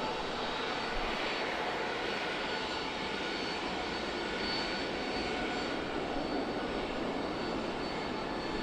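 Jet airliner engines running at the airfield: a steady rushing noise with a faint high whine, without swelling or fading.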